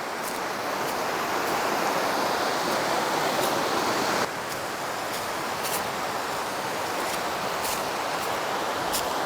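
Steady rush of creek water, an even hiss that drops suddenly in level about four seconds in, with a few faint clicks over it.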